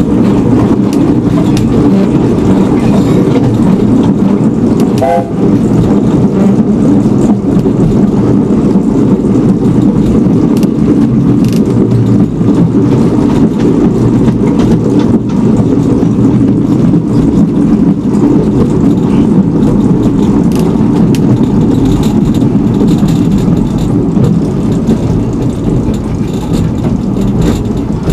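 Narrow-gauge railway train running, a steady loud rumble with no let-up, and a brief faint tone about five seconds in.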